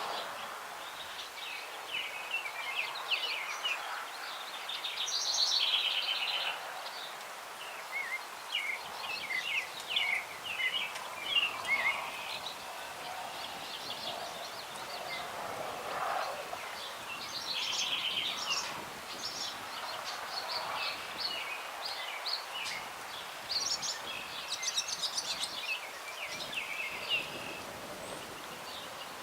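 Several songbirds singing and chirping in a grove of old trees, overlapping short phrases and trills, over a light breeze in the branches.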